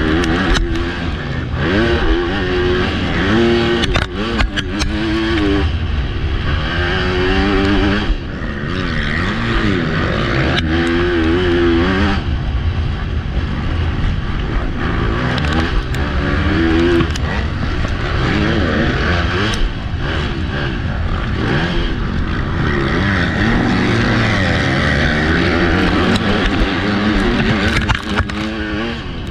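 Motocross bike engine heard from on the bike during a race, revving up and dropping back again and again as the rider accelerates and backs off through the track sections, with a few brief knocks along the way.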